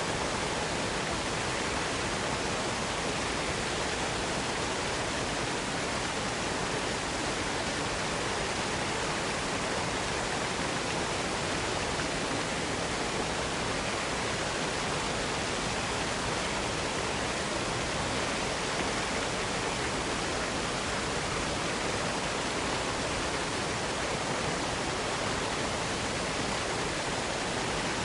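Waterfall pouring: a steady, even rush of falling water with no change throughout.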